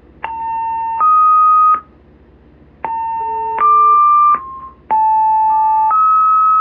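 Fire dispatch two-tone paging tones heard over a radio scanner. Three times, a steady lower tone of under a second steps up to a higher one, and the last higher tone is held long. The tones alert the companies due on a call before the dispatch is read.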